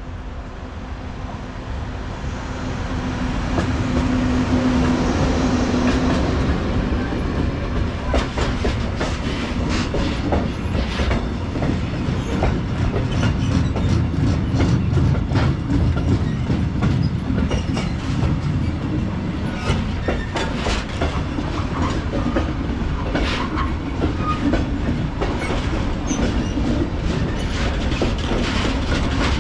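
Freight train passing close by. It grows louder over the first few seconds with a steady hum that fades out, then the wagons roll past with a rumble and a run of sharp clicks from wheels over rail joints.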